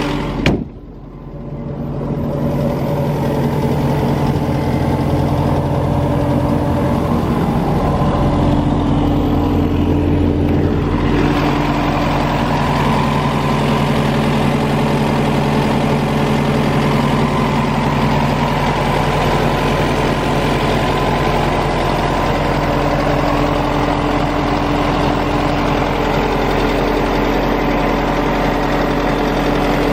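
Mercedes-Benz 904LA diesel engine of an Atlas Copco XAMS286MD portable air compressor running steadily. A sharp click about half a second in is followed by a brief drop in level before the steady running returns.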